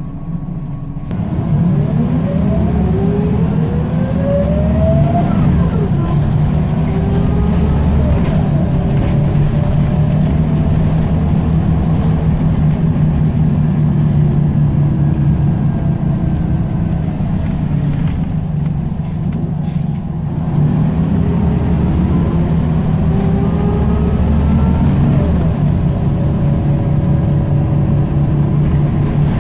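Scania L94UB single-deck bus engine and transmission pulling away, the whine climbing in pitch as it accelerates from about a second in. It eases off briefly near two-thirds of the way through, then accelerates again with another rising whine.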